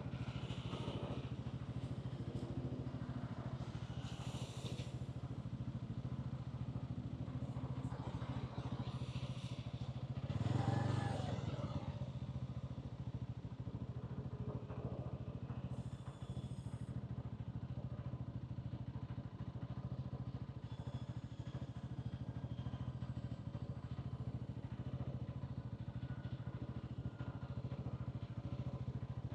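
Hansom Bike Venett 125cc motorcycle engine running steadily, with traffic noise around it. A brief louder swell comes about ten and a half seconds in.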